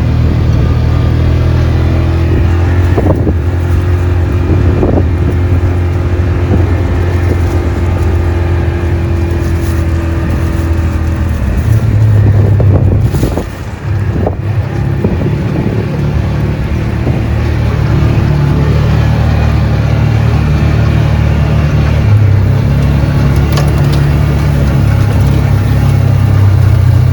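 Motor vehicle engine running steadily as the vehicle drives. It briefly drops off about 13 seconds in, then comes back on a slightly higher note.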